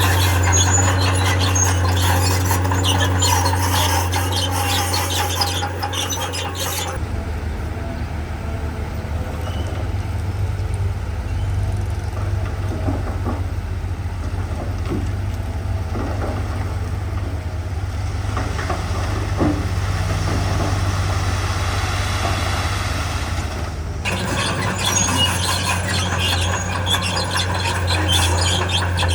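Diesel engine of a heavy crawler machine running, with its steel tracks squealing and clanking as it moves. The track squeal drops away for a long stretch in the middle and comes back near the end.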